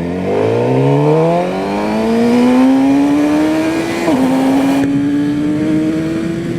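Suzuki GSX-R inline-four through an Akrapovic full exhaust, accelerating hard with the engine note climbing steadily. About four seconds in, the pitch drops sharply on an upshift, then climbs again.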